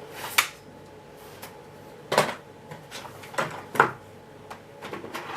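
A handful of short, sharp knocks and clicks of things being handled, with no vacuum motor running.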